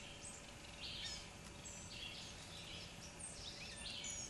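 Faint birdsong: small birds giving short high chirps and slurred calls over a quiet outdoor background.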